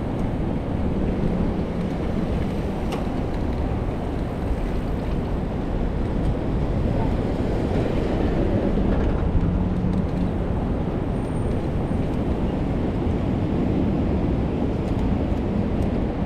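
Steady rumble of traffic and wind noise as heard from a moving bicycle on city streets, with no single sound standing out.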